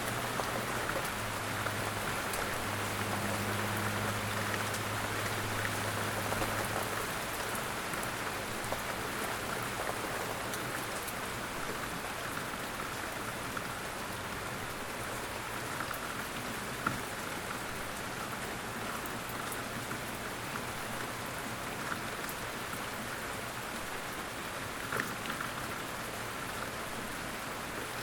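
Light rain falling steadily, with single drops ticking close by now and then, the sharpest about 17 and 25 seconds in. A faint low hum sits underneath and fades out after about seven seconds.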